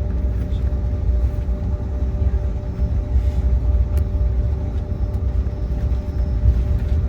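Jet airliner's engines running steadily: a constant low rumble with a steady hum over it, not rising in pitch.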